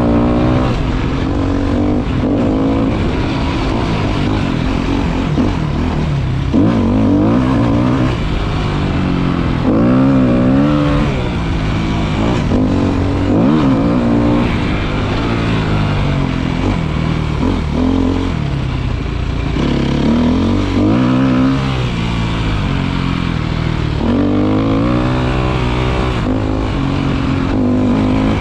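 Motorcycle engine running under way, its pitch rising and falling again and again as the throttle opens and closes, with a steady rush of wind noise.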